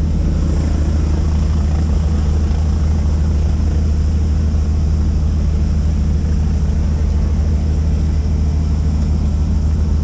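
A helicopter in flight: the rotor and engine make a loud, steady low drone that holds even throughout.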